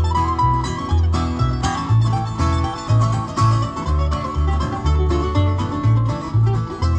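Acoustic bluegrass band playing live, with banjo and guitar picking over a bass line that steps between notes on the beat.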